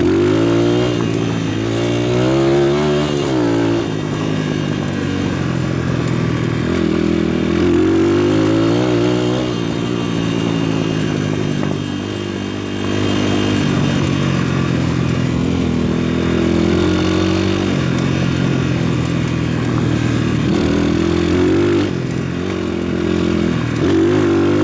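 A PitPro 140cc pit bike's single-cylinder four-stroke engine pulls along under way. The revs climb and fall again and again as the throttle is rolled on and off, with a brief easing off about halfway through.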